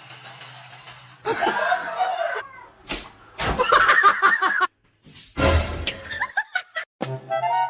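People laughing in bursts, with a sharp smack about three seconds in.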